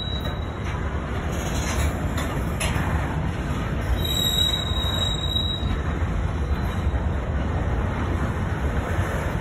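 Freight train's covered hopper cars rolling past close by, with a steady rumble of steel wheels on the rails. A thin high squeal sounds for a second or so about four seconds in.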